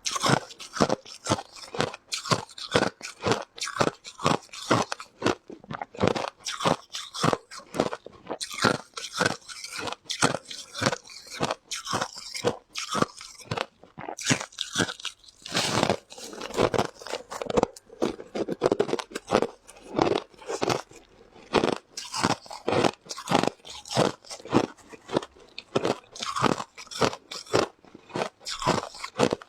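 Close-up crunching and chewing of hard ice, in many quick irregular crunches, several a second, with a few longer grinding crunches about halfway through.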